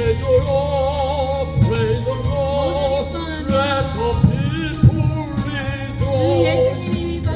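A solo voice singing a gospel hymn over a steady instrumental backing track, holding long notes with a wide vibrato.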